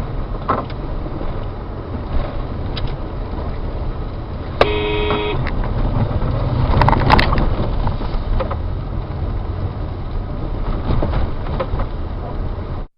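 Steady rumble of a car driving on the road, with a car horn honking once, briefly, about five seconds in. A few sharp knocks come around seven seconds in, then the sound cuts off suddenly near the end.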